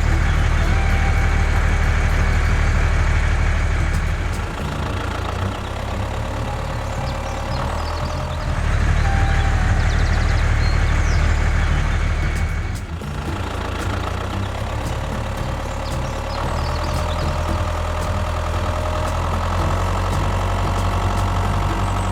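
Mini tractor's engine running steadily with a deep hum. It drops lower about four seconds in, comes back up at about eight seconds, and dips briefly once more near thirteen seconds.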